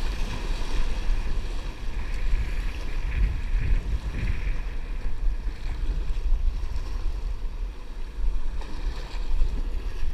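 Wind buffeting the microphone in a steady low rumble over the wash of water around a kayak.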